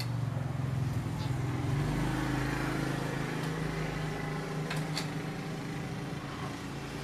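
A motor vehicle engine running steadily, with a few short sharp clicks.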